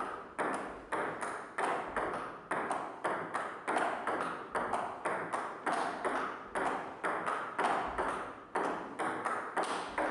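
Table tennis rally: a celluloid ball clicking back and forth between paddles and the table at a steady pace of about two to three hits a second.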